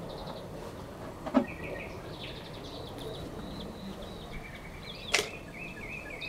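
Songbirds singing in fast, high trills and runs of repeated notes over a low steady background, with two sharp clicks, one about a second in and a louder one about five seconds in.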